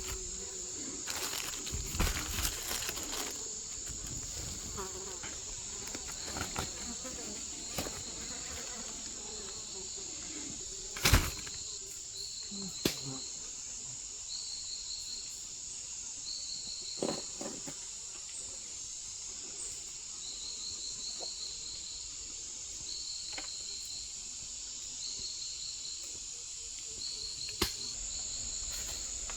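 Outdoor insects, crickets among them, giving a steady high-pitched buzz, with short chirping trills repeating about once a second. A few sharp knocks break through, the loudest about eleven seconds in.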